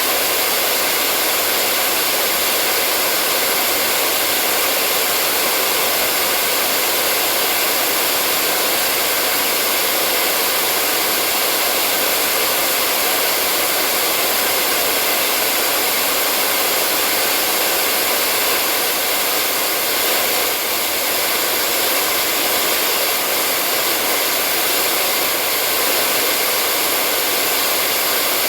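Hair dryer running continuously: a steady, unchanging hiss of blowing air, played as white noise to lull a baby to sleep.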